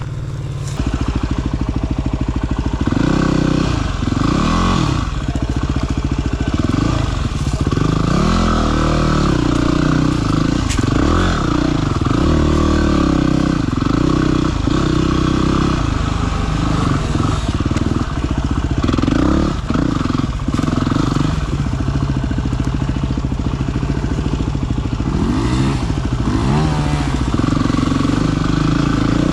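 Dirt bike's single-cylinder four-stroke engine being ridden along a trail. The revs rise and fall again and again with the throttle and gear changes, and it gets louder about a second in.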